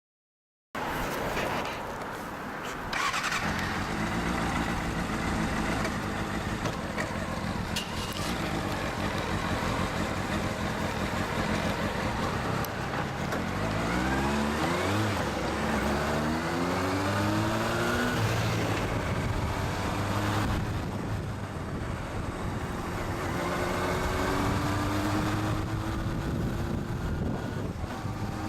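Kawasaki Balius 250 cc inline-four engine running through a Wr's aftermarket exhaust with the baffle fitted, while the motorcycle is ridden. It starts about a second in; from about halfway the revs rise repeatedly through the gears and drop back between shifts.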